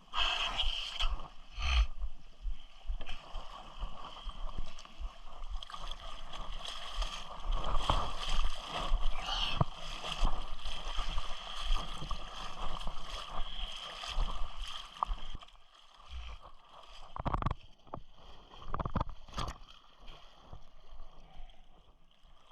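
Water sloshing and splashing around a sit-on-top kayak, broken by many small knocks. After about fifteen seconds it turns quieter, with a few heavy thuds.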